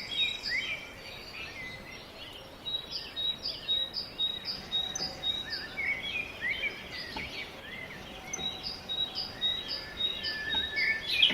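Small songbirds singing: one repeats a quick two-note phrase about three times a second in two runs, while other birds add scattered chirps, over faint outdoor background noise.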